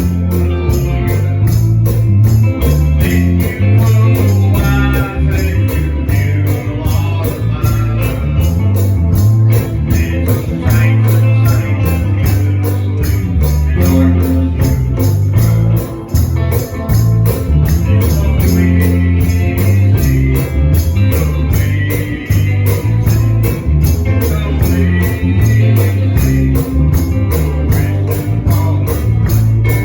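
Gospel music from a church band: bass and guitar under a steady, quick tambourine beat, with singing.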